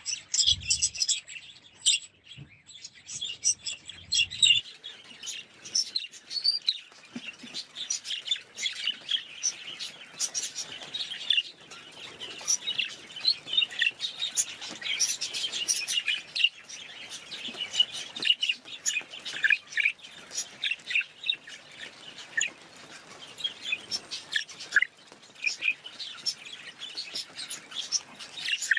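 Budgerigars chirping and chattering, a dense unbroken stream of short high chirps.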